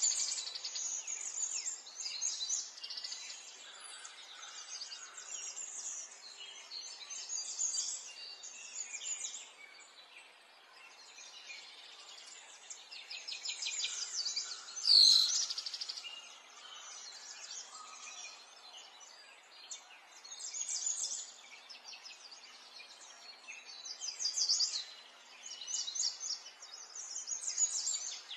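Small birds singing continuously, with chirps and fast trilling rolls, and one louder, sharp sound about halfway through.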